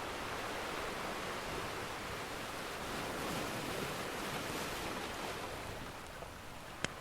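Ocean surf washing steadily, swelling and easing, with a single sharp pop from a crackling wood fire near the end.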